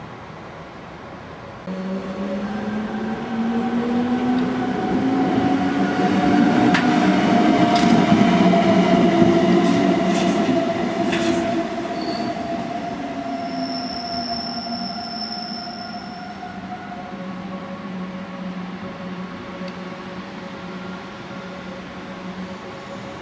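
An electric locomotive-hauled train running past, its motors whining in pitches that climb and then fall away. It is loudest about eight to ten seconds in, with wheel clicks over the rail joints and a brief high wheel squeal.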